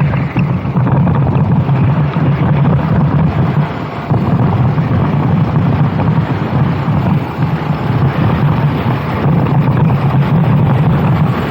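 Kart engine running hard under way, with wind buffeting the microphone. The engine note dips briefly about four seconds in, then picks up again.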